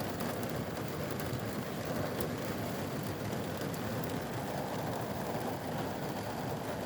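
Rain mixed with hail falling steadily, a continuous rushing noise with scattered light ticks of hailstones.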